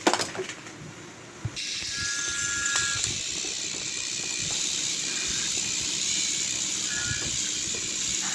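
Battery-powered toy train engines running on the track: a steady hiss of motors and wheels that starts about a second and a half in, after a click at the start.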